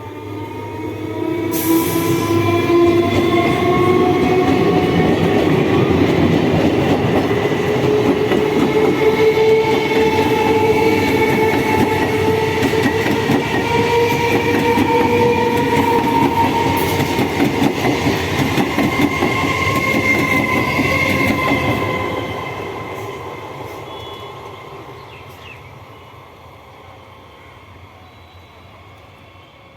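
Electric local train accelerating out of a station: a whine that rises slowly in pitch over the rattle of wheels on the rails. It grows loud within the first couple of seconds, stays loud, then fades away over the last several seconds as the train leaves.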